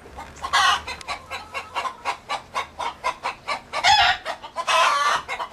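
Hens cackling the egg song: a rapid run of clucks, several a second, broken by louder drawn-out calls about half a second in, near four seconds and around five seconds. It is the laying call, which the keeper takes as a sign that an egg is coming.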